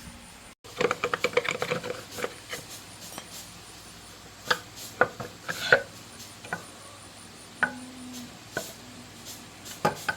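Hand work on motorbike engine parts: a quick run of clicks about a second in, like a ratchet or rapid tapping, then scattered separate taps and knocks of tools and metal parts being handled.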